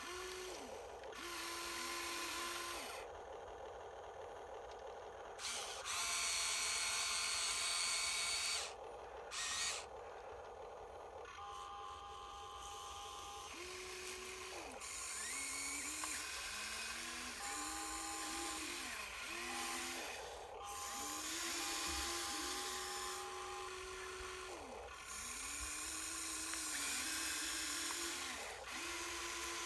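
Small electric gear motors of a Huina 1593 radio-controlled toy dump truck whining, speeding up, holding, then slowing down in many short runs as it is driven and worked.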